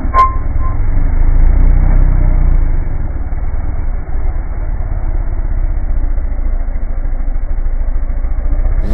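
Low, steady rumble of a motor vehicle engine running, with a sharp click just after the start.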